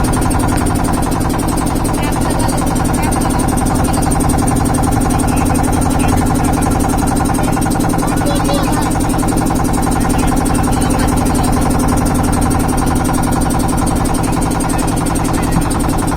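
A steady, unbroken motor hum, level throughout.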